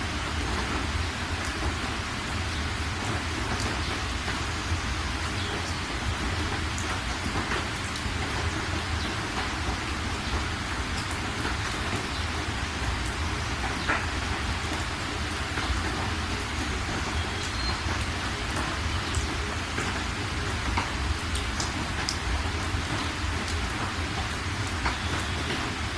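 Steady rain falling, an even hiss with scattered sharp drop ticks and a low rumble underneath throughout.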